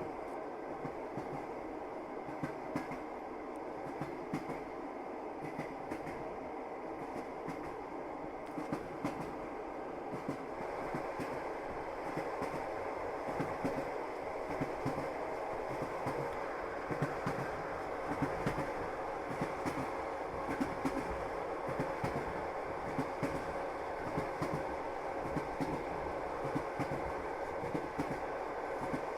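Passenger train running along the track: a steady rumble with the wheels clicking and clattering over the rails. It grows a little louder about ten seconds in.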